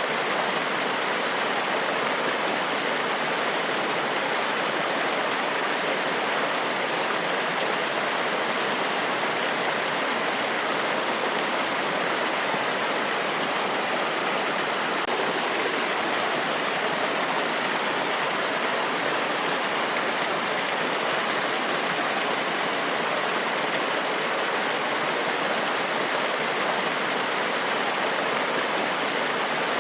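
Waterfall: water cascading over rocks in a steady, even rush without breaks or changes.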